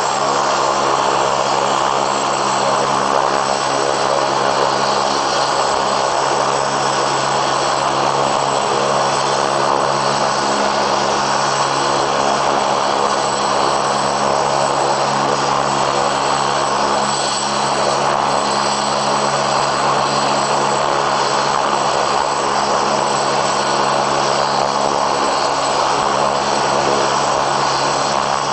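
Helicopter running steadily, its engine and rotor making a loud, unchanging noise with a steady low hum.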